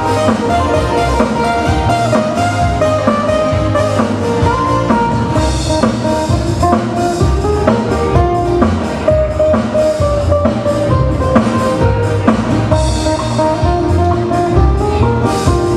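Live band playing an instrumental passage of a Hawaiian song: a melody line over bass and a steady drum beat.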